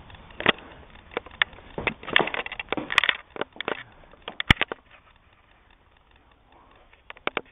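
Irregular clicks, knocks and rustling of handling and movement, many in the first half, then a brief quick run of clicks near the end.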